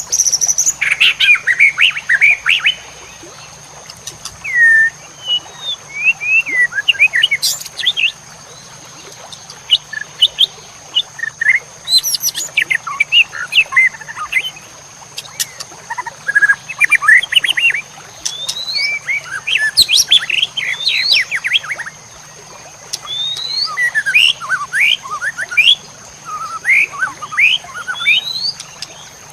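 Songbird singing bursts of rapid, varied chirps, whistles and trills, broken by a few short pauses: a masteran song recording of the kind played to train caged songbirds.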